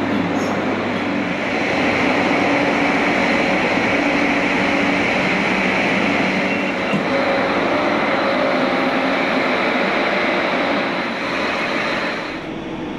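Steady hum and rushing noise of an electric commuter train at an underground station platform. It drops noticeably near the end.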